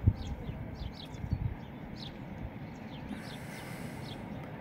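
Small birds chirping repeatedly, short high chirps several a second, over a steady low rumble. A single sharp knock right at the start.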